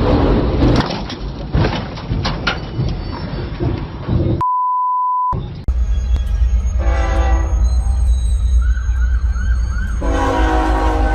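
Knocks and rattling noise for about four seconds, then a steady one-second beep. After that comes a steady low rumble, with a horn blast, a run of quick warbling siren glides, and a second, longer horn blast near the end.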